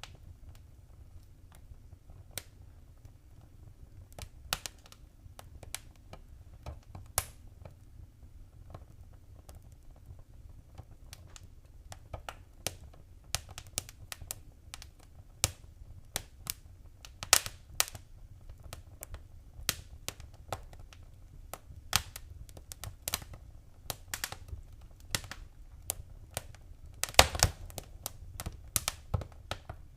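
Wood fire crackling in a fireplace: irregular sharp pops and snaps over a low rumble of the flames, growing busier as it goes on, with a loud burst of pops near the end.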